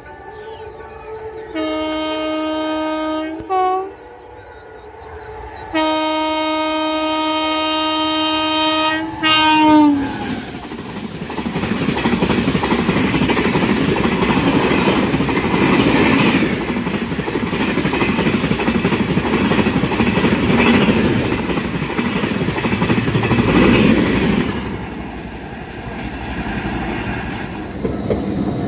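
WAP7 electric locomotive's horn sounding two blasts, each followed by a short toot, the second blast longer and its toot sagging in pitch as it ends. Then the train passes at speed, a loud rumble with wheel clatter, which eases off near the end.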